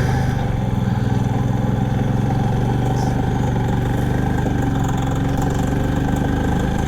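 Royal Enfield Himalayan motorcycle's single-cylinder engine running steadily under load on an uphill mountain road, with rushing air noise over it.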